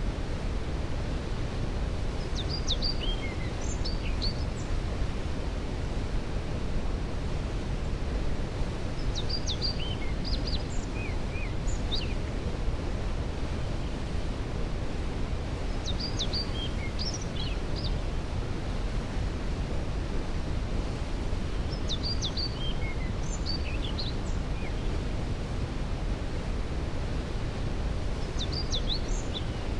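Steady rush of a waterfall, with a songbird singing a short phrase of quick high notes about every six or seven seconds, five times.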